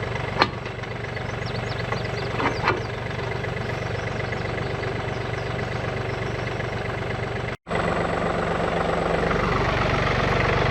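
Diesel farm tractor engine idling steadily, with a sharp knock about half a second in and a couple more around two and a half seconds. After a brief cut-out about three-quarters of the way through, the engine is louder.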